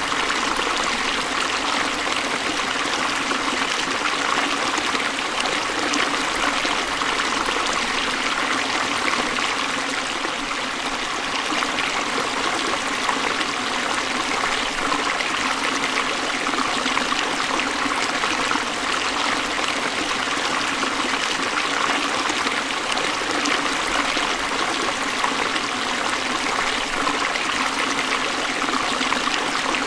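Forest stream flowing over rocks, a steady unbroken rush and trickle of water.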